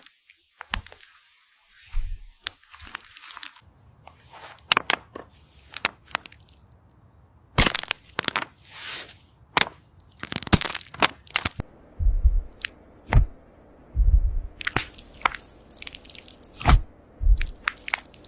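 Crisp cracking and crunching of crunchy slime being cut, in irregular sharp strokes, some carrying a dull low thump.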